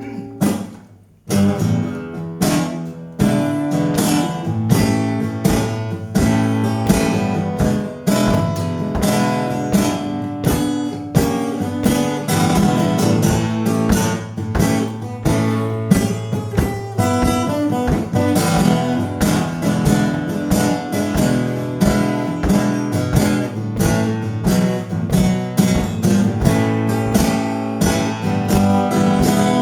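Acoustic guitar strummed in a steady rhythm, starting about a second in: a song played live.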